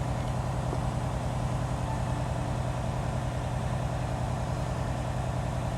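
Semi truck's diesel engine running steadily with an even low hum during a parked DPF regeneration, the exhaust filter being burned clean.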